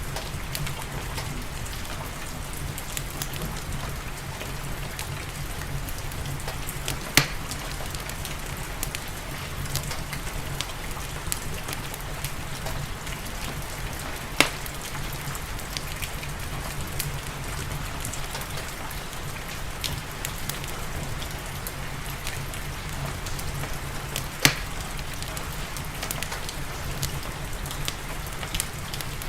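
Steady rain falling, mixed with a crackling wood fire in a fireplace: many small ticks under the rain and three sharp, louder pops spread through the stretch.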